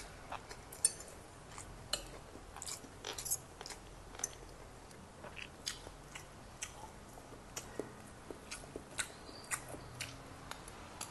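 Close-miked chewing and mouth sounds of a person eating rice and pork: many small, irregular clicks and smacks.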